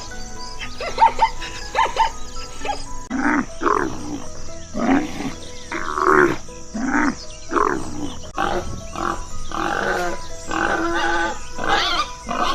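Animal calls over background music. Short, high calls come in the first couple of seconds, then a run of loud, heavier calls about once a second.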